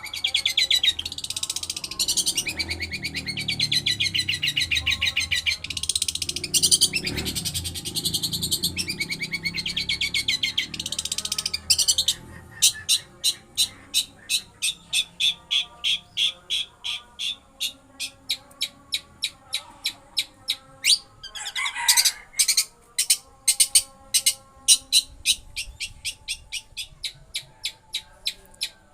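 Long-tailed shrike (pentet) singing, mimicking the rolling song of a lovebird. A dense, fast, high trill runs for about the first twelve seconds, then gives way to a long run of separate sharp chirps, two to three a second.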